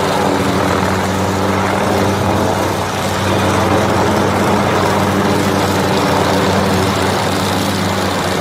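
Aircraft engine running steadily in flight, a constant drone with an even rushing noise over it.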